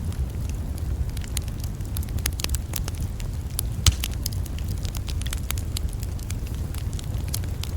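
Campfire crackling, with irregular sharp pops and snaps, the loudest about four seconds in, over a steady low rumble.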